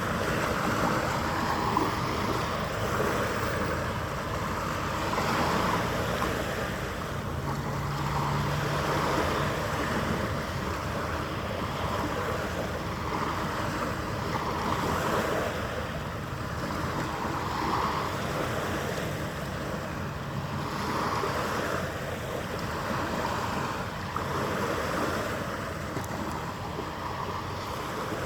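Waves washing against the waterfront, swelling and easing every couple of seconds, with some wind.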